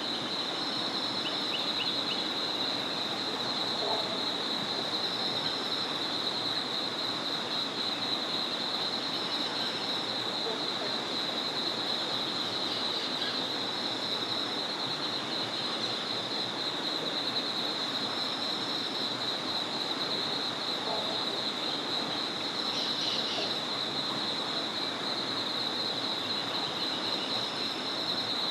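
A steady high-pitched chorus of insects over the even rush of a small flowing river, with a few faint bird chirps now and then.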